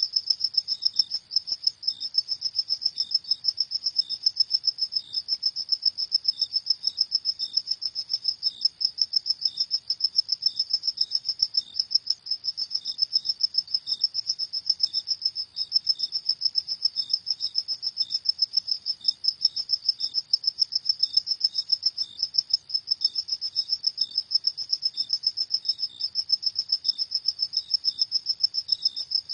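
Crickets chirping at night: a steady, high-pitched run of rapid, evenly repeating chirps, with a fainter, slightly lower chirp from another cricket scattered among them.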